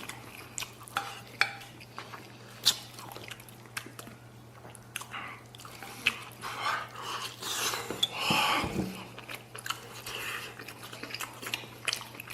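A person chewing and gnawing on braised pork spare ribs with the mouth close to the microphone, with a few sharp clicks in the first few seconds and a louder bite or slurp about eight seconds in. A faint steady hum runs underneath.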